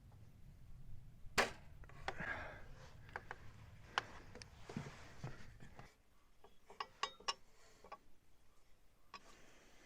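Scattered knocks and clicks of work or handling, the sharpest a little over a second in, over a low hum that stops about six seconds in.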